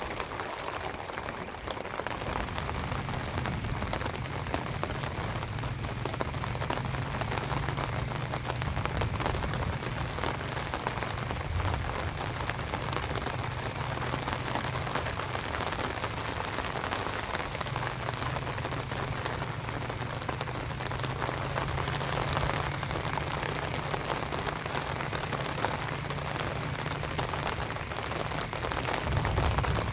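Steady rain falling on flooded fields and standing water, an even hiss of many drops. A low rumble runs underneath and eases briefly about halfway through.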